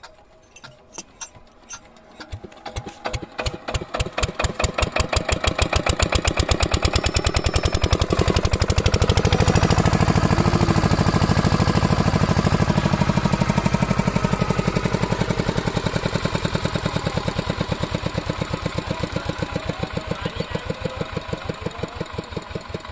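Single-cylinder diesel engine of an irrigation water pump set, its chugging firing beats starting slow and faint, then quickening and growing loud over the first six seconds. It runs loudly for a while, then eases and grows quieter near the end.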